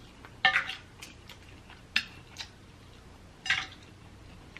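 Eating snow crab legs: three sharp cracks and clicks of shell, about a second and a half apart, with fainter clicks between.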